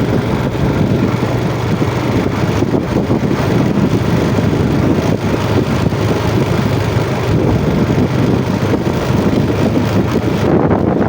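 Yamaha Jupiter MX motorcycle's single-cylinder four-stroke engine running steadily under way, mixed with wind rumbling on the microphone.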